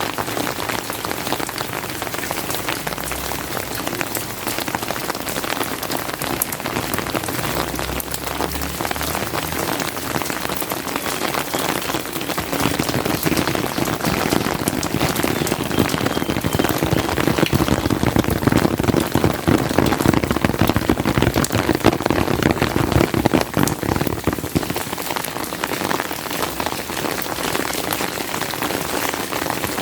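Steady rain with dense ticking drops. It grows heavier and louder about halfway through, then eases off again near the end.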